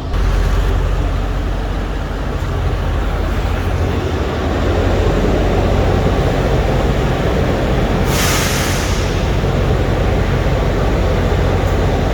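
A semi truck's diesel engine runs with a steady low rumble. About eight seconds in comes a hiss of air from the air brakes, lasting about a second.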